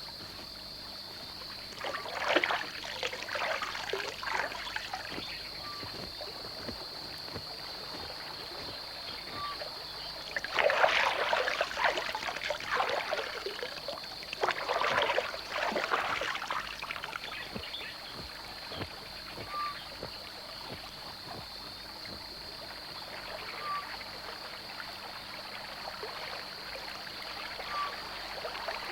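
Kingfishers plunging into water to bathe after feeding: three bouts of splashing. A steady, high-pitched insect drone runs underneath.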